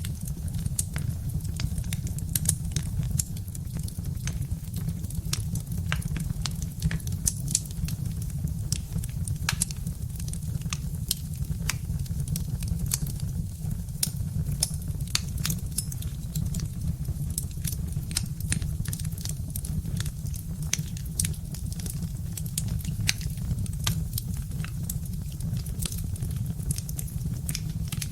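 Birch-log fire crackling: many irregular sharp pops and snaps, some louder than others, over a steady low rumble of the burning fire.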